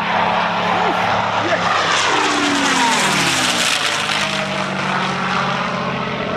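Propeller aircraft making a fast, low pass. Its engine and propeller roar builds to a peak about three and a half seconds in, and the pitch drops as it goes by.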